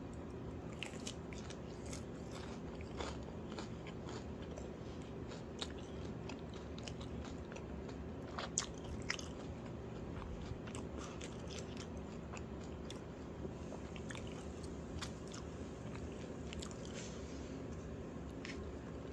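A person chewing food close to the microphone: irregular wet mouth clicks and small crunches, two louder ones about halfway through, over a steady low hum.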